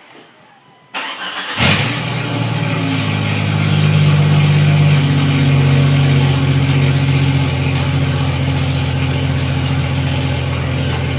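1998 Jeep Cherokee XJ engine with its muffler removed, exhaust open behind the catalytic converter, cranking briefly about a second in, catching and then running at a loud, steady idle.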